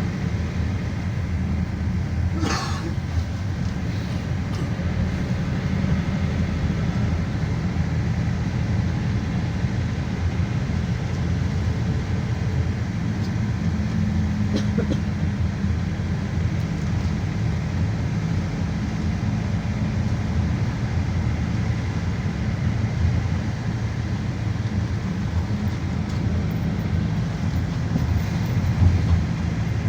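Cabin noise inside a GAZelle Next minibus under way: a steady low engine and road rumble, with a brief sharp rattle about two and a half seconds in.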